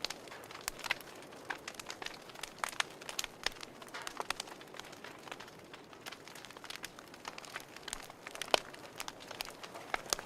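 Fireplace fire crackling: irregular sharp pops and snaps over a soft steady hiss, with one louder pop a little past eight seconds in.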